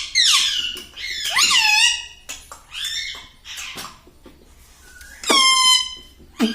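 Ring-necked parakeet giving a string of shrill, squeaky calls, about five in a row, each bending up and down in pitch. The longest and loudest call comes about five seconds in.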